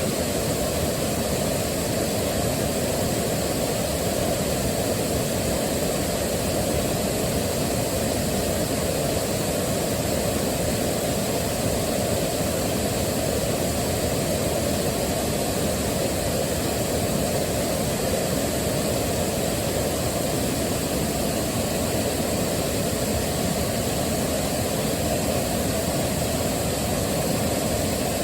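Waterfall rushing steadily, a constant deep wash of falling water with no breaks or changes.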